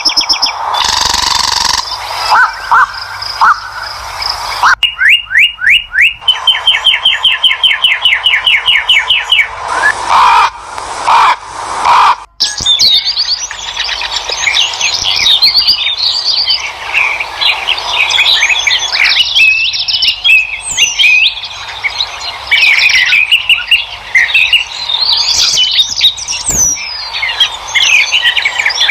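Several songbirds chirping and singing, with many short calls and whistled glides. A fast, evenly repeated trill runs from about five to nine seconds in. The sound changes abruptly twice, as if separate recordings were spliced together.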